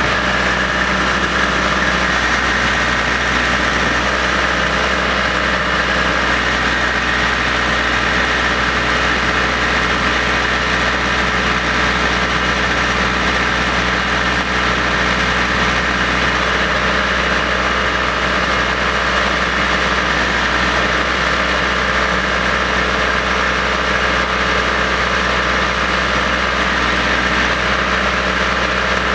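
1988 Case 760 vibratory cable plow trencher's engine running steadily at an even speed.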